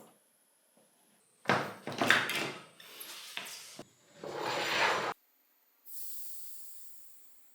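Two loud bursts of rustling, scraping work noise, then air hissing out of a mountain bike tyre's valve, the hiss fading steadily as the tyre deflates.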